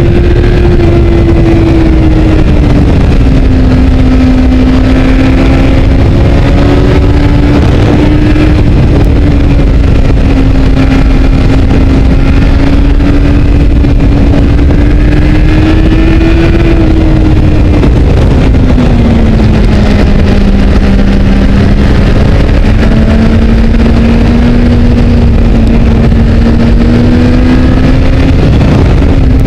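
Honda CBR600RR's inline-four engine running at high revs on a steady throttle, its pitch easing down and creeping back up slowly as the road bends. Loud wind rush and road rumble buffet the bike-mounted microphone.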